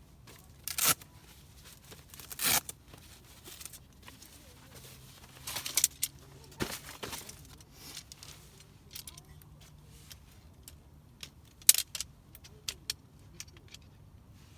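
Gear being handled: irregular clinks, clicks and short rustles, a few louder knocks among them.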